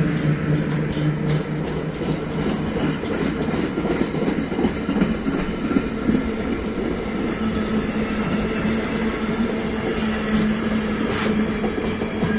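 A train running past on the line, with a steady noise of running gear and humming tones over it: one hum fades out about a second and a half in, and another, lower one sets in about halfway through.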